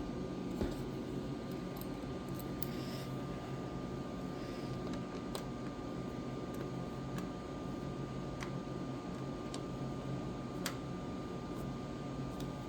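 Scattered light metallic clicks of Allen-head bolts and an Allen key being handled and set into an engine's valve cover, about half a dozen, irregularly spaced, over a steady background hum.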